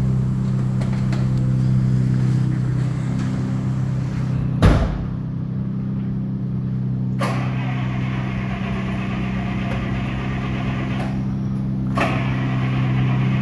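Engine idling steadily, with a loud thump a little under five seconds in and two sharper knocks later on.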